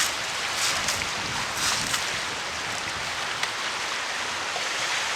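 Steady rushing noise of wind and sea surf, with two brief rustling scrapes about one and two seconds in.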